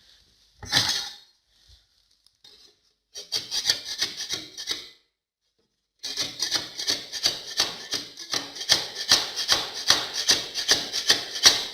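A hand scraper scraping stuck putty and plaster off a wall in rapid back-and-forth strokes, about three a second. A short run of strokes comes first, then steady scraping from about halfway through.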